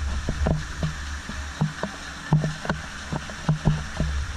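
Water fountain splashing, with irregular short low thuds every few tenths of a second over a steady low rumble.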